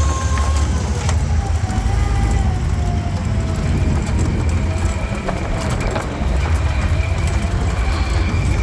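Volkswagen Kübelwagen's air-cooled flat-four engine running as the open vehicle drives along: a deep, steady rumble with a faint whine that rises and falls, and a few sharp knocks and rattles from the body.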